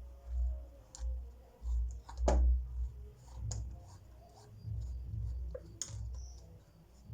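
Hands cleaning dirt off freshly gathered wild mushrooms: irregular small clicks and light scrapes, with a stronger scrape about two seconds in and soft low thuds between.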